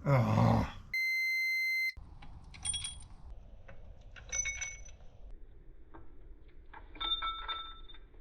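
A one-second steady electronic bleep, like a censor beep, about a second in. It is followed by three short, bright metallic clinks that ring briefly as small metal engine parts are handled on the bench.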